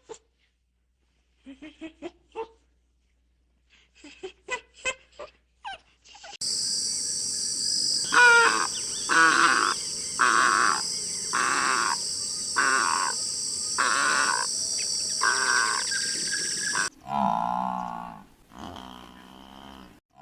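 Short clucking calls in the first few seconds, then a different animal calling about once a second over a steady hiss, then a cow mooing near the end.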